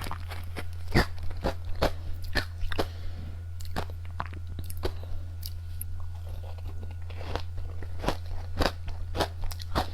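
Close-miked crunching and chewing of hard Japanese candy: a rapid, irregular run of sharp, crisp crunches, thinning out for a few seconds mid-way before picking up again.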